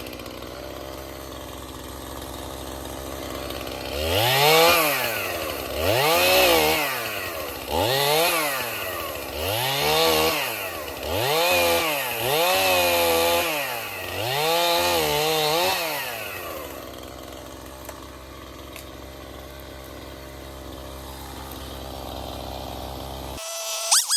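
Stihl MS271 50 cc two-stroke chainsaw idling, then revved up and down about seven times in a row as it cuts a notch into Russian olive wood, each rev rising and falling in pitch, before dropping back to a steady idle. Near the end there is a short sharp knock.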